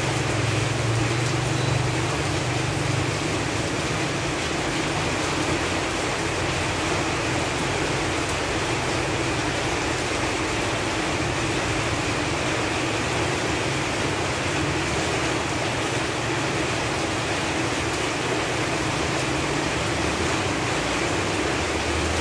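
Steady rain falling on leaves, an even hiss of drops with no let-up. A low rumble sits under it in the first few seconds and again near the end.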